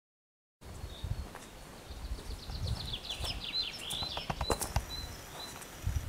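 A songbird sings a quick run of falling high notes, then a few short high whistles. There are a few sharp rustling clicks near the middle, over a low rumble.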